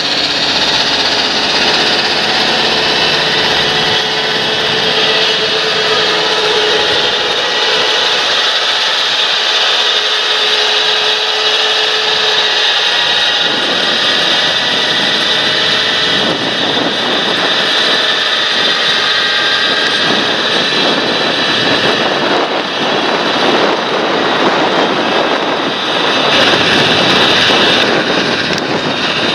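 Large John Deere tractor running steadily under load while working a field, its engine and turbo making a continuous drone with a high whine on top.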